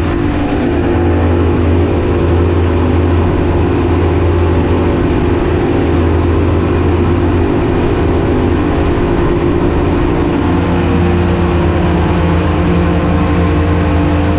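Glass bottom boat's engine running steadily while the boat is under way, a constant low drone with a steady pitch.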